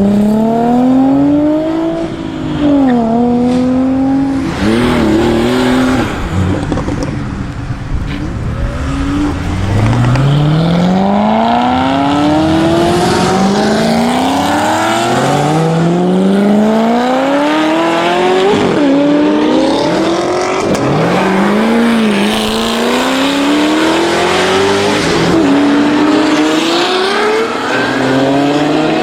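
High-performance car engines accelerating hard, one car after another. Each engine's pitch rises steadily and drops sharply at each upshift before climbing again.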